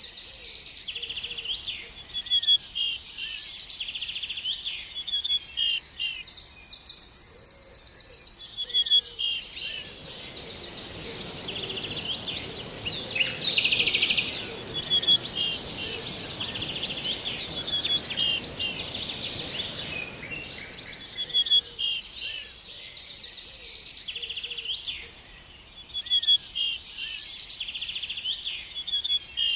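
Several birds chirping and singing without pause: dense short calls and fast trills. From about nine seconds in to about twenty-one seconds, a steady very high hiss and a low, even noise sound under the birds.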